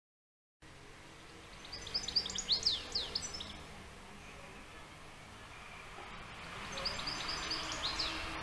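A songbird singing two quick phrases of high, downslurred notes, the first about two seconds in and the second near the end, over the steady background noise of an outdoor field recording.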